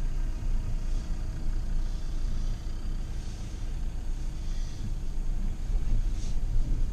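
Suzuki Jimny's engine running steadily at low revs, heard from inside the cab while it crawls over a rocky off-road track. A brief higher hiss comes about six seconds in.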